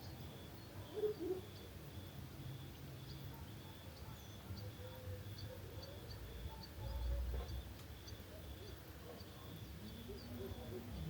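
Crickets chirping in an even, steady pulse of about two chirps a second, with a brief low rumble about seven seconds in.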